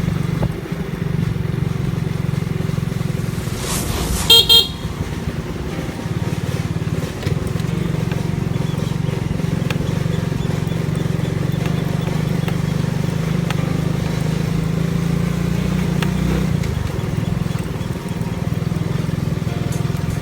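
Motor vehicle engine running steadily with road noise, as heard while riding along; about four and a half seconds in, a horn gives one short toot.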